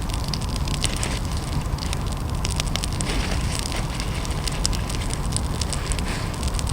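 A newly lit campfire crackling, with many sharp pops scattered through it, as the fire catches. A steady low rumble runs underneath.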